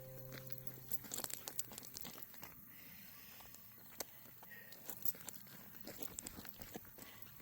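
Light footsteps outdoors: scattered small crunches and clicks, irregular and spread across the whole stretch.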